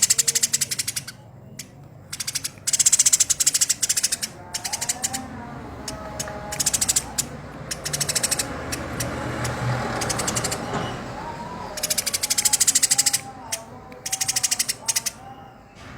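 Eurasian tree sparrow chattering harshly: fast trains of sharp chirps in bursts of about a second, repeated with short gaps, with a rougher, hissing stretch near the middle.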